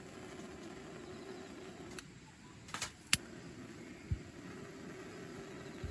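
Steady low outdoor background rush, with a few sharp clicks around two to three seconds in and a dull knock about four seconds in.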